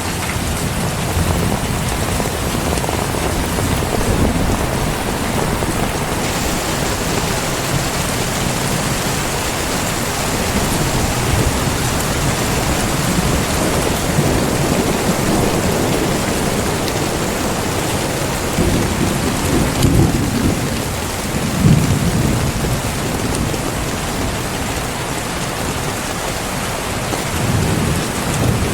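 Heavy rain pouring steadily, with low rolls of thunder rising and fading, the loudest about two-thirds of the way through.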